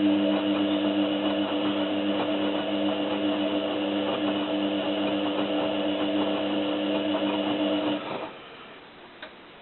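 Zanussi FLA1002W washing machine drum motor turning the drum in one direction during the wash tumble, a steady hum with the duvet and water churning, then cutting off about eight seconds in for the pause before the drum reverses.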